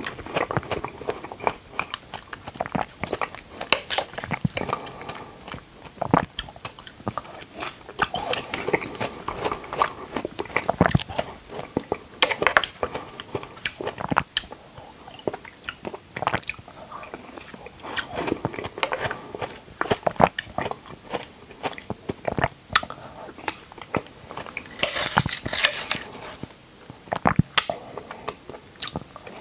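Close-miked chewing and biting of red dragon fruit chunks in a white creamy sauce: wet, irregular mouth sounds with many sharp clicks, and a brief louder hissing burst near the end.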